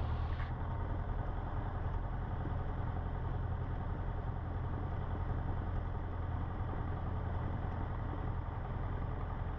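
Cessna 150's four-cylinder Continental O-200 engine running steadily at low power before take-off, heard from inside the cockpit as an even, low drone.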